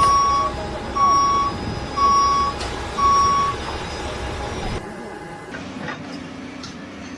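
Vehicle reversing alarm beeping four times, about once a second, in a steady single tone over a running engine. The beeping stops after a few seconds and a lower, quieter engine hum continues.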